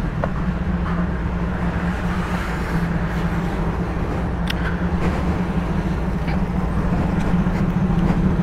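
Motorcycle engine idling steadily on choke while it warms up after a cold start.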